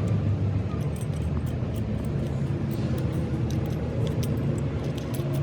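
A steady low engine or machine drone, with scattered sharp metallic clinks and taps over it.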